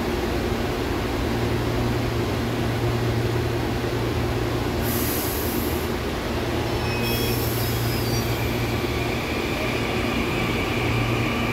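Electric multiple-unit commuter train starting to pull out of the station: a steady low hum from its motors and equipment, two short hisses of air around the middle, and a whine beginning to rise near the end as it gathers speed.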